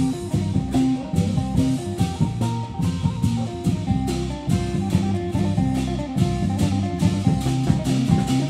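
Isan drum band playing lively procession music: a steady, quick drum beat of about three strokes a second under a plucked-string melody.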